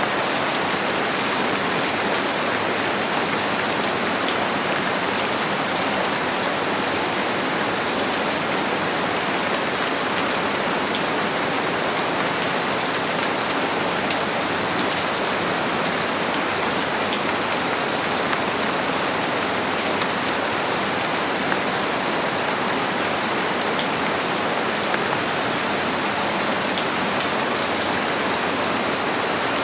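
Steady heavy rain, a dense even hiss of rain falling on surfaces with fine individual drop ticks through it.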